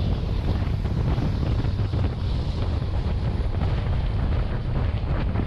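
Wind buffeting a camera microphone held out of the window of a moving passenger train, over the steady rumble of the train running along the track.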